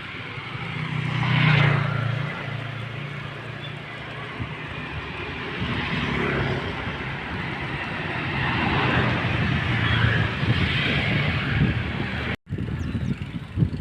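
Road vehicle noise: a steady low engine hum with road and passing-traffic noise that swells louder a few times, cutting out for an instant near the end.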